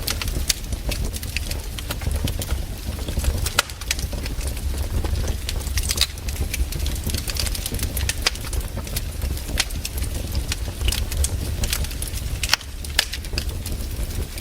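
Campfire crackling: burning wood snapping and popping in many sharp, irregular cracks over a steady low rumble.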